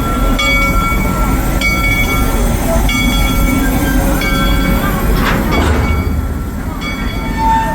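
Narrow-gauge 4-4-0 steam locomotive train by Crown Metal Products running, with a steady low rumble and a ringing tone that repeats about once a second.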